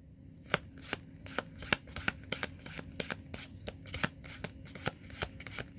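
A handful of trading cards being flicked through one at a time, a quick irregular run of soft snaps and slides, several a second.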